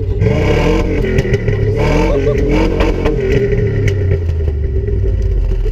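Car engine revved hard several times, its pitch rising and falling, with a condom stretched over the exhaust pipe.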